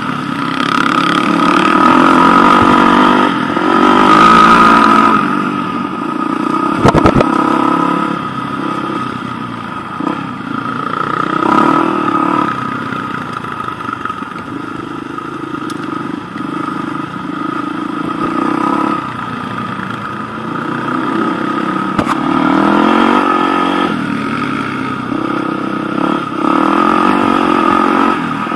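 Enduro motorcycle engine heard on board while riding a gravel track, revving up and down with the throttle. A sharp knock stands out about seven seconds in.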